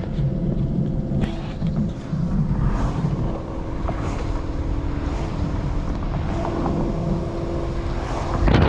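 Chevrolet Camaro driving at a steady pace, with a low engine and road rumble.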